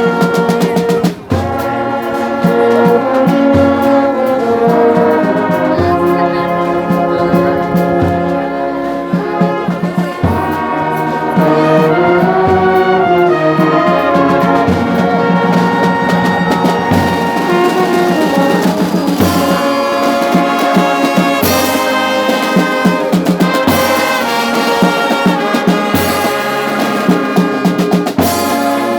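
Brass band with trombones and trumpets playing a tune in held chords, with a brief break about a second in.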